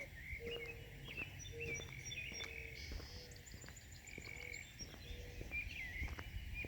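Birdsong: a dove cooing in a run of low, steady notes while many small songbirds chirp and twitter at a higher pitch.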